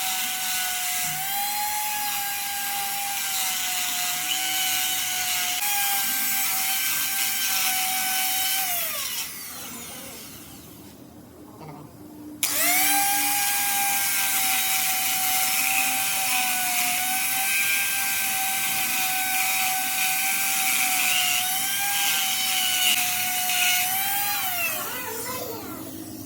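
Electric power tool motor running at a steady high whine with a hiss, spinning down with a falling pitch, then starting up again abruptly a few seconds later and running until it spins down once more near the end.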